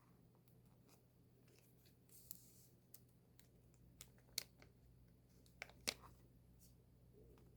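Quiet handling of album packaging: a brief rustle of paper or plastic, then a handful of sharp little clicks and snaps, the loudest two about four and a half and six seconds in, over a low steady hum.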